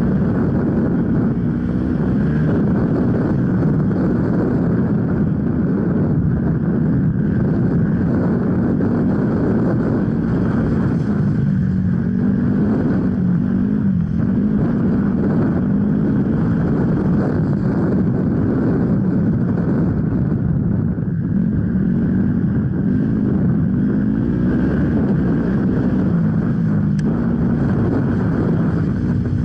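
Off-road enduro motorcycle engine running continuously, its note rising and falling again and again as the throttle is opened and closed.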